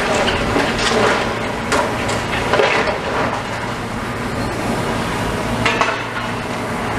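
Demolition machinery at work: a steady diesel engine hum under repeated clattering crashes of rubble and debris, several in the first three seconds and one more near six seconds.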